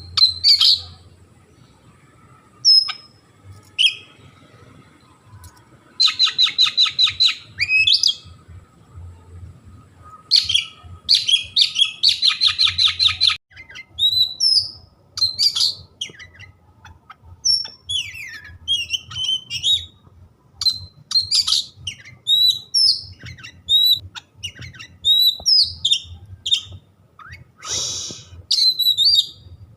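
Oriental magpie-robin (kacer) singing: varied high whistled notes and slurred glides, with two long rapid trills of repeated notes at about ten a second, and one harsh rasping call near the end.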